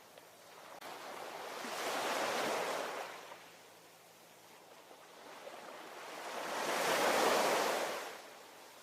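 Ocean waves washing in, two surges about five seconds apart, the second one louder, each swelling up and then fading back.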